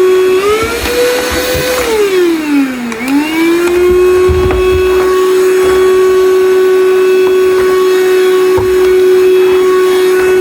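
Cheap cordless handheld mattress vacuum cleaner running on its number 1 setting, its motor giving a loud steady whine. The pitch steps up about half a second in, sags sharply and climbs back about three seconds in, then holds steady.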